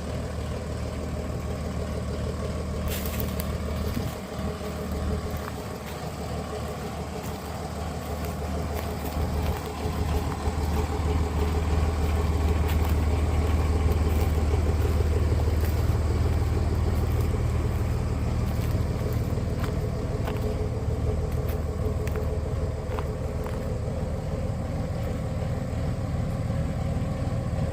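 An engine running steadily with a low hum that swells about ten seconds in, then eases slightly.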